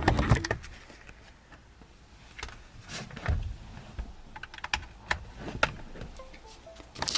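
Keys tapped on a laptop keyboard: a scatter of short, irregular clicks, with a louder knock of handling right at the start.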